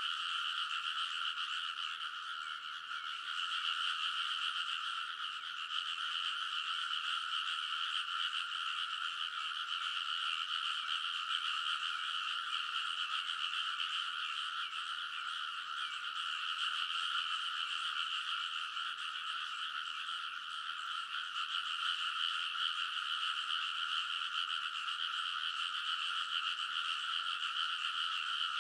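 A dense chorus of many frogs calling from a rice paddy, their overlapping croaks merging into one steady, unbroken wall of sound.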